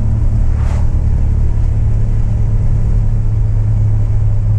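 BMW E92 M3's S65 V8, running on the road at a steady, unchanging engine note with its newly replaced exhaust manifolds, as a loud low drone.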